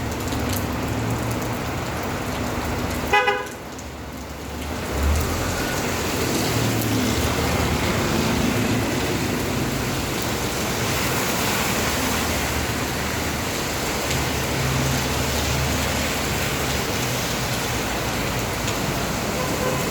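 Steady rain with road traffic running through it; a vehicle horn gives one short toot about three seconds in.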